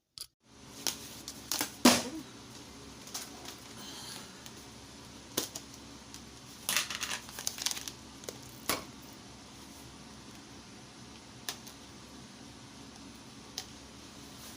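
Crinkling and rustling with scattered sharp clicks and knocks over a steady low hum, the loudest click about two seconds in and a cluster of crinkles around seven to eight seconds.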